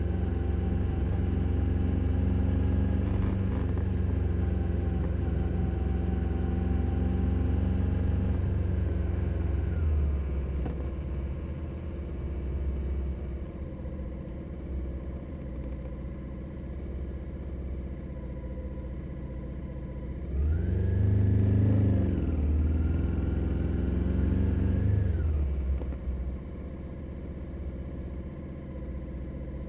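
2021 Suzuki SV 650's 645 cc V-twin engine under way. It pulls steadily for the first nine seconds, then drops back and runs quieter on a closed throttle for about ten seconds. About twenty seconds in it revs up sharply, holds for a few seconds, then falls away again, and it starts to rise once more at the very end.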